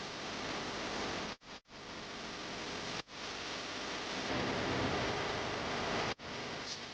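A steady, even hiss of noise, cut off abruptly for a split second a few times: twice in quick succession about a second and a half in, again about three seconds in, and once near the end.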